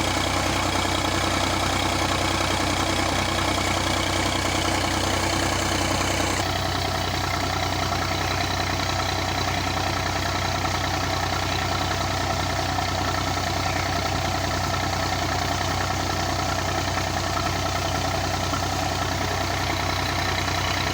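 Massey Ferguson 240 tractor's three-cylinder diesel engine running steadily while driving a tubewell pump. Its sound shifts abruptly and gets slightly quieter about six seconds in.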